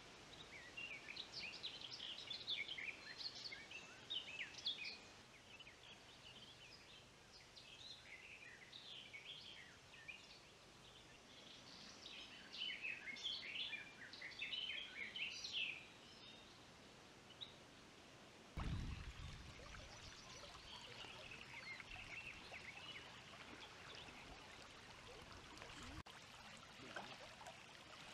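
Faint wild birdsong: bouts of quick, varied high chirps and trills. About two-thirds through, a low rumbling noise cuts in suddenly.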